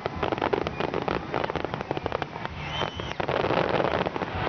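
Aerial fireworks display: a dense, rapid run of crackling pops from many glittering star bursts going off at once.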